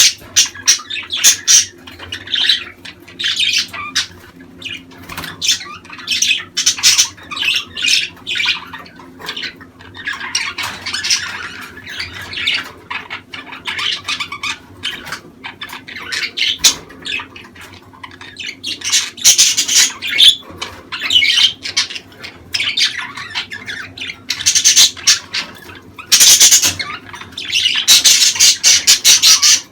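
Budgerigars chattering and squawking: fast runs of shrill chirps and warbles in loud bursts, with quieter chatter between them.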